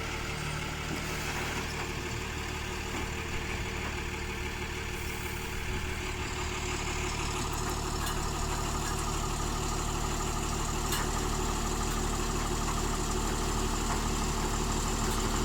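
Tata 3718 tipper truck's diesel engine running steadily, getting gradually a little louder through the second half.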